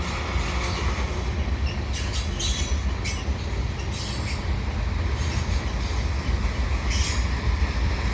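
Heavy freight train rolling slowly past: a steady low rumble, with a few short, sharper wheel noises on top.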